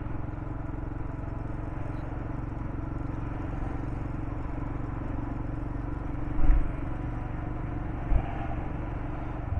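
Royal Enfield Himalayan's single-cylinder engine running at a steady, even pace under way, with a low rumble of wind and road. Two brief low thumps come about two-thirds of the way through.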